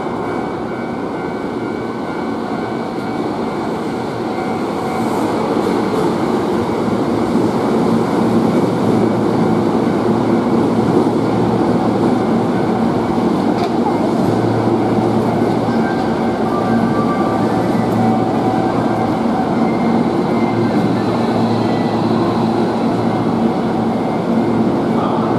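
Hankyu electric train running into an underground station platform as it arrives, a steady rumble of wheels and motors with a few held tones. It grows louder a few seconds in as the cars come alongside, then holds level as they pass.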